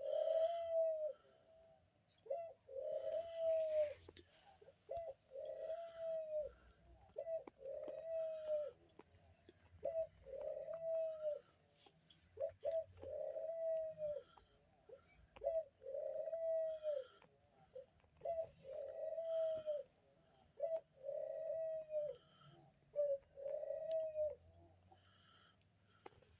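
A dove cooing over and over: a dozen or so single low, rounded coos, each rising and falling in pitch, about one every two seconds, stopping a little before the end. A few faint clicks sound between the coos.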